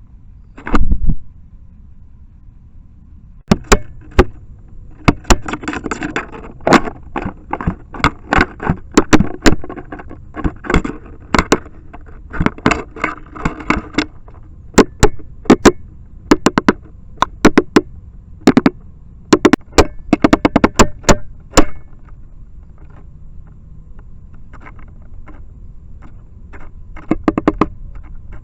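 Red-bellied woodpeckers pecking and drilling into the plastic housing and motion-sensor windows of a trail camera, picked up by the camera's own microphone: loud, irregular knocks, some in quick runs and others single, with short pauses between bouts.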